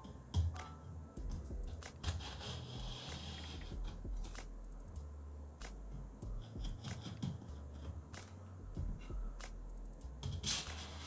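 Cardboard and paper packaging being handled and opened: scattered light clicks and rustles, with a longer rasp about two seconds in and a louder one near the end.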